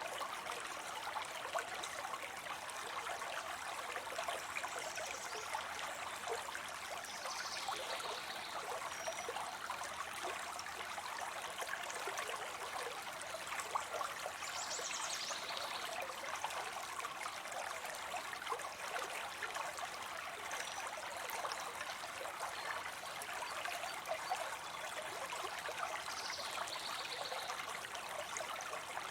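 Water spilling steadily into a pond, a continuous trickling splash. Three brief high calls sound over it, about a quarter of the way in, halfway and near the end.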